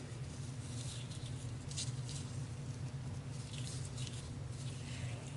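Soft rustling and scratching of ribbon and cardstock being handled, in a few brief rustles over a steady low hum.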